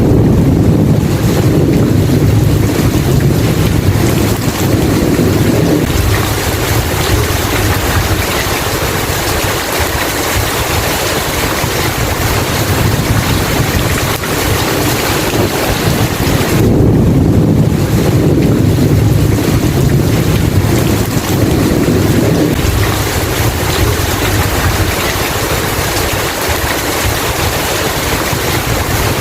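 Steady heavy rain with two long, low rolls of thunder, one at the start and one a little past the middle.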